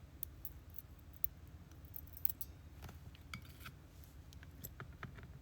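Small, irregular metallic clicks and ticks of tweezers against the pins and parts of a disassembled Abus C83 lock cylinder, over a low steady hum.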